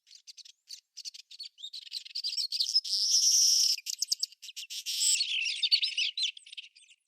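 Small birds chirping and twittering, a dense run of quick high-pitched calls and trills that swells into continuous twittering a few seconds in and again near the end.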